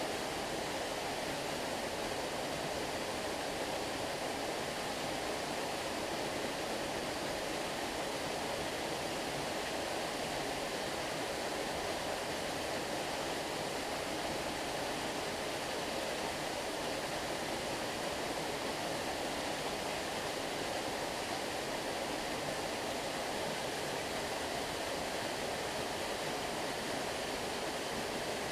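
Stream water flowing in a steady, unchanging rush, with no distinct splashes or other events.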